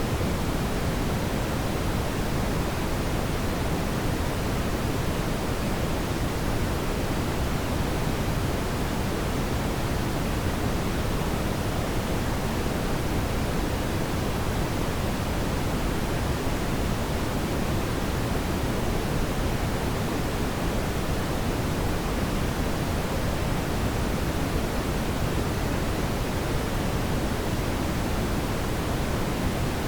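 Steady brown noise: an even, deep hiss weighted toward the low end, with no change or events.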